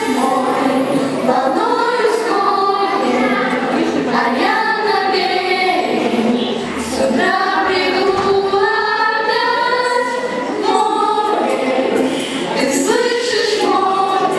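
School pupils singing together as a choir, a continuous song with sustained notes.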